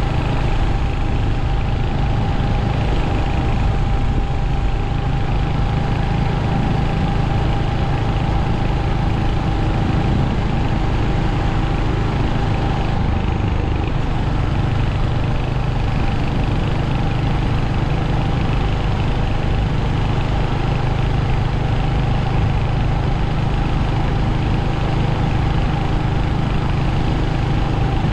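Royal Enfield Hunter 350's single-cylinder engine and exhaust running steadily, with an even low thrum and no big changes in revs.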